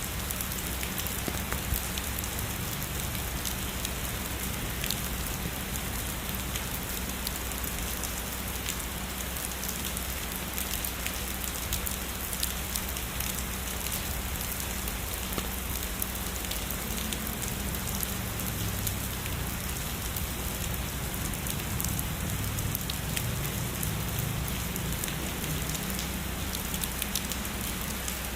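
Heavy rain falling steadily, a dense wash of rain noise dotted with the sharp ticks of individual drops hitting nearby.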